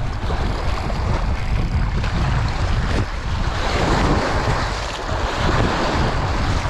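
Strong wind buffeting the microphone in a loud, continuous rush, over waves churned up on the lake.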